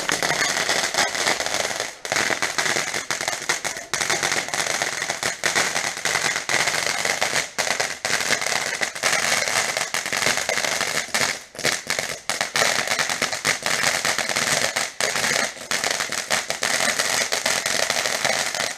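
Garden firework crackling continuously for nearly twenty seconds: a dense, rapid crackle over a steady hiss, stopping abruptly at the end.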